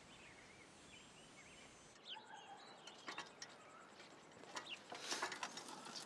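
Faint outdoor ambience with birds calling, starting about two seconds in after a quiet stretch.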